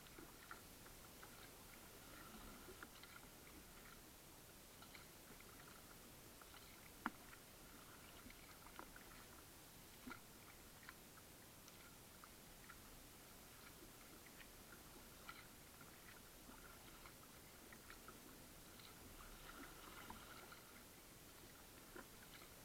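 Near silence: a faint steady hiss with scattered small clicks and ticks, and one sharper click about seven seconds in.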